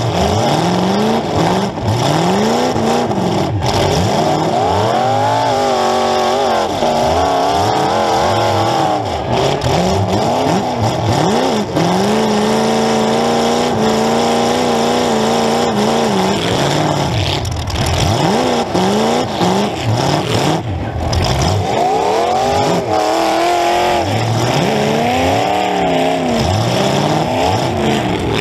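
Demolition derby car's engine heard from onboard, revving hard over and over, its pitch climbing and falling in repeated swells, with a steadier held stretch about halfway through.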